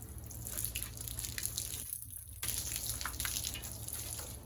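Water running and dripping as a car's engine bay is washed down, with a short lull about two seconds in.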